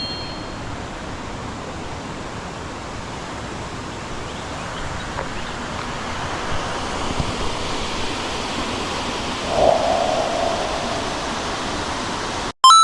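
Steady rushing of a waterfall, cutting off abruptly near the end, where a short chime begins.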